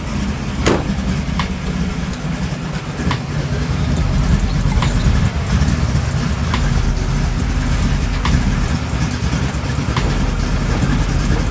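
Chevrolet Monte Carlo G-body's engine running at idle with a steady low rumble, getting louder about four seconds in. A faint click repeats about every second and a half.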